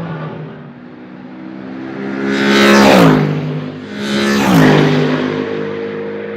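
Two Mercedes SLS AMG GT3 race cars passing at speed one after the other, about a second and a half apart. Each V8's pitch drops sharply as it goes by, over a steady background engine hum.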